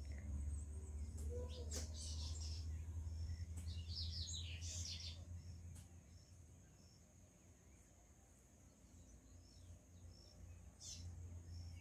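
Birds chirping in a few short bursts, about two seconds in, again around four to five seconds, and once more near the end. Under them run a steady thin high insect drone and a low rumble that fades in the middle.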